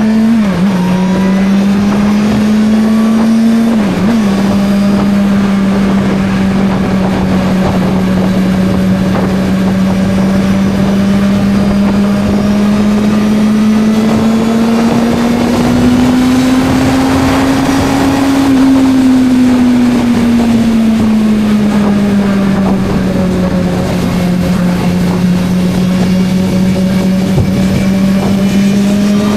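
Suzuki GSR 600's inline-four engine running under way at fairly steady revs, with two brief dips in revs near the start, then a slow climb in pitch through the middle that eases back down. A steady rush of wind noise runs underneath.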